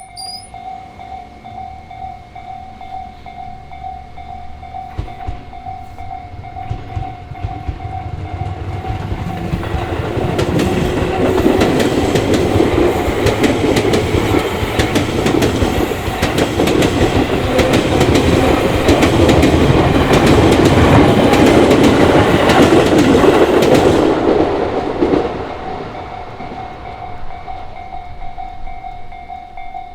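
A Japanese level-crossing warning bell rings steadily. A Tobu Tojo Line electric train approaches and passes with its wheels clattering over the rail joints, the loudest part lasting from about a third of the way in to about four-fifths, then fades away while the bell keeps ringing.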